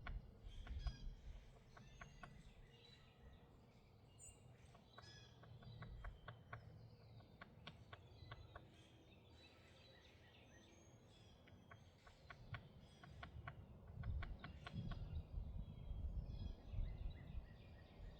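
Small birds chirping faintly, many short calls overlapping, with a low rumble that grows louder from about two-thirds of the way in.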